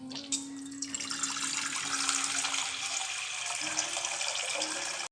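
Water running steadily from a kitchen tap into a sink, cutting off abruptly at the end.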